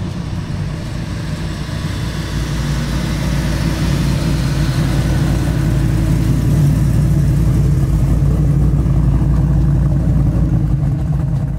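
Big block V8 (a 540 cubic inch engine in a 1970 Jaguar XJ6) running on the road with a steady low rumble. It gets louder over the first several seconds, then holds steady.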